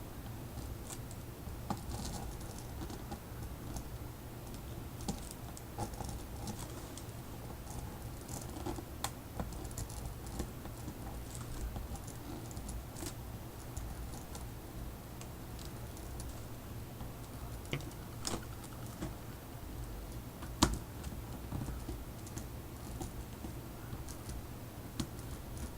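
Irregular light taps and clicks of art tools and a stencil on paper as doodles are worked through the stencil, with one sharper click about two-thirds of the way through, over a steady low hum.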